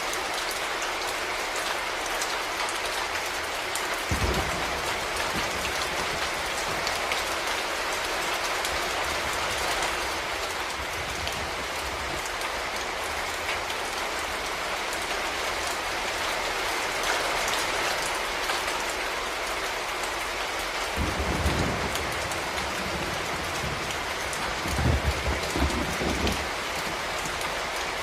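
Steady rain falling, an even hiss of drops, with a few brief low bumps about four seconds in and again past twenty seconds.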